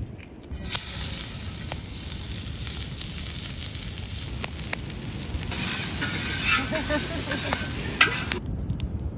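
Chopped vegetables frying in hot oil in a steel plow-disc wok over a wood fire, a steady sizzle with a metal spatula scraping and stirring across the pan. The sizzle starts just under a second in, grows louder past halfway, and cuts off suddenly near the end.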